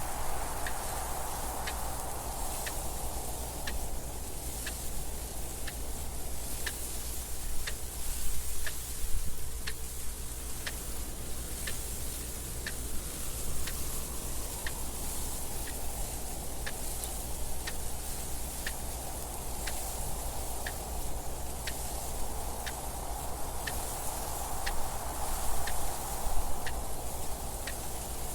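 Mechanical clock ticking steadily, about one tick a second, over wind that rises and falls in slow gusts.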